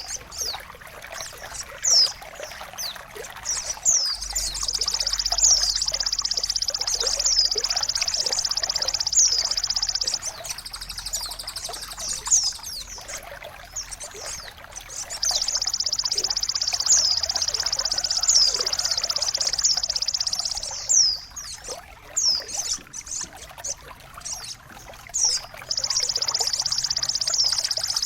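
Recorded songbird sounds of the kind played to train caged birds: long, very fast high-pitched trills that come in stretches of several seconds, broken by short downward-sliding whistles, over a steady trickle of running water.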